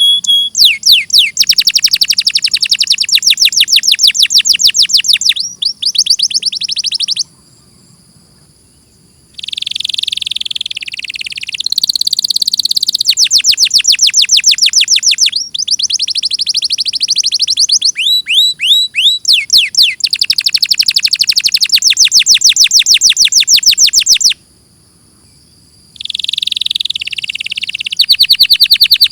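Domestic canary singing a long, loud song of rapidly repeated trilled phrases, some rapid sweeping notes and some held rolling notes. It breaks off twice for about two seconds.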